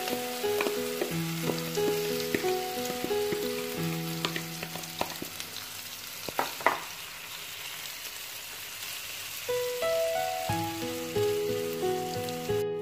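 A bread and chopped-vegetable mixture sizzling as it fries in oil in a nonstick pan. A fork stirs it, with a few scrapes and taps against the pan, the loudest cluster about six and a half seconds in. Instrumental background music plays over it and drops out for a couple of seconds in the middle.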